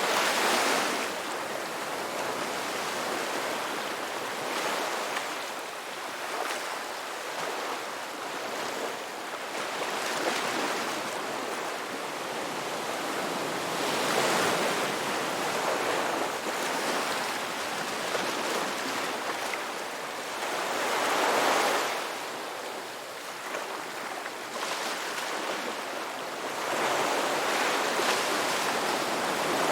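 Ocean waves breaking and washing on the shore, a steady rush of surf that swells every few seconds, strongest about 14 and 21 seconds in and again near the end.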